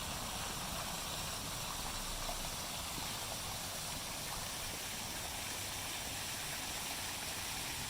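Steady splashing of water from a running fountain.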